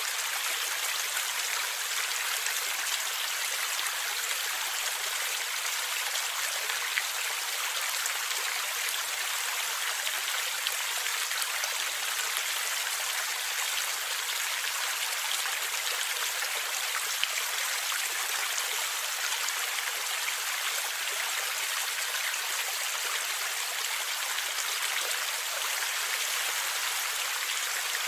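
Gurgling water of a stream flowing steadily, an even bright rush with very little low rumble.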